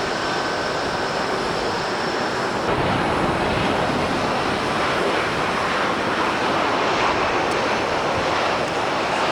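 Airliner jet engine noise, a steady loud rush that grows a little fuller about three seconds in.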